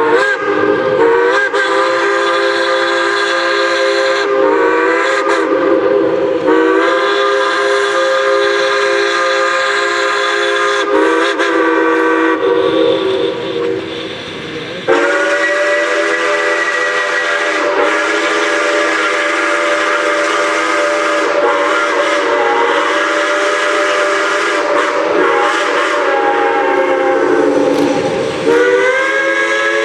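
Steam locomotive whistles blowing a series of long blasts with short breaks between them, several tones sounding at once like a chime, over a steady hiss of steam. The longest blast lasts more than ten seconds.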